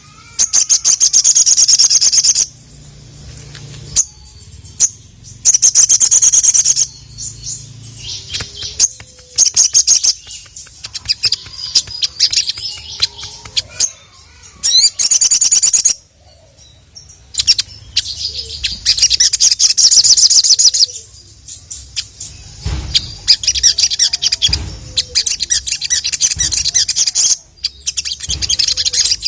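Sogon (brown-throated sunbird) singing loudly in full song: repeated fast, high, rattling trills about one to three seconds long. Sharp single chips and short notes come between the trills.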